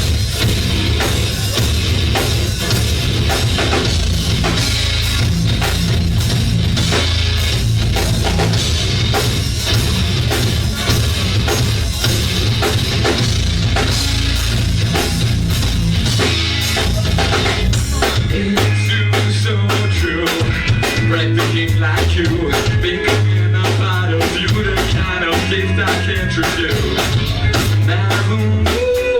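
Live rock band playing loudly, led by a drum kit with bass drum and a strong bass line. About two-thirds of the way in the cymbals drop out and the low bass-and-drum pattern turns choppier.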